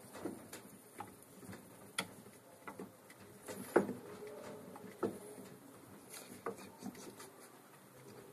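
A cat's paws pattering on a cat-powered washing machine contraption, with scattered light knocks and clicks from the device. The loudest knock comes about four seconds in.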